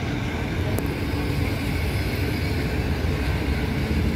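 Passenger train carriages rolling past at close range: a steady rumble of wheels on the rails, with one sharp click just under a second in.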